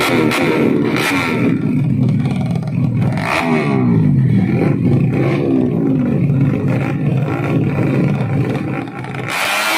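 Motorcycle engine being revved up and down repeatedly, its pitch rising and falling over and over, with a few sharp cracks in the first few seconds. Music cuts in just before the end.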